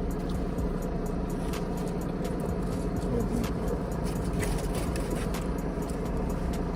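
Steady low engine hum, with scattered small clicks and crackles over it.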